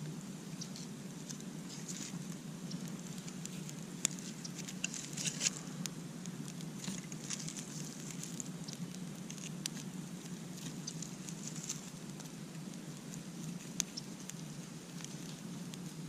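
Campfire crackling, with irregular sharp pops and snaps over a steady low rush; a flurry of crackles about four to six seconds in, and single louder pops about four seconds in and near fourteen seconds.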